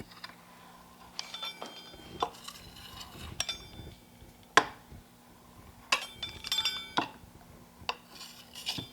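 Metal utensils clinking and knocking against bowls and dishes, about a dozen irregular clinks, each with a short ringing tone, the loudest about four and a half seconds in.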